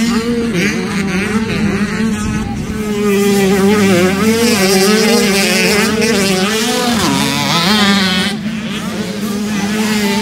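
Dirt bike engine held at high revs, its pitch wavering up and down with the throttle.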